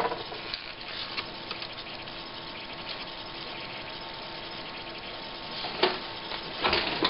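Steady background hiss with a faint hum and a few light clicks, then two short bursts of handling noise near the end as parts of an opened LCD monitor are worked on by hand.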